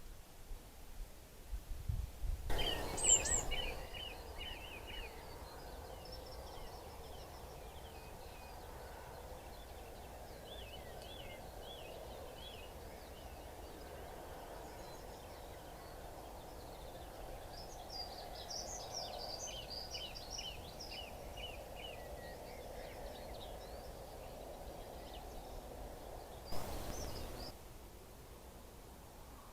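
Small wild birds chirping and singing over a steady low background hum. The loudest run of quick chirps comes a few seconds in, and another flurry of song comes about two-thirds through. A short rush of noise comes about two seconds in and again near the end.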